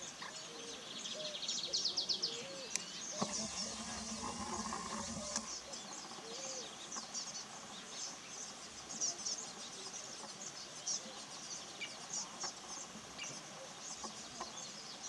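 Small birds chirping and twittering in many short high notes, with a fast trill about a second in. A steady low hum with a high whine sounds for about two seconds near the three-second mark.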